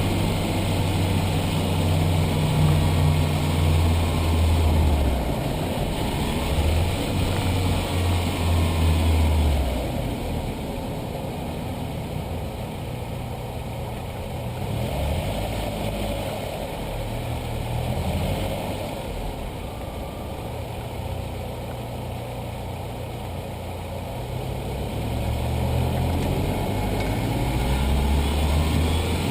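Audi A4 B5's 1.8-litre turbocharged four-cylinder engine running, its low note shifting up and down in steps, with faint gliding whines above it. Somewhere in it is an odd noise the owner can't pin down.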